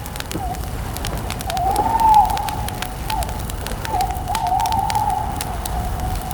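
Wood campfire crackling with frequent sharp pops over a steady low noise, while a wavering tone rises and dips throughout.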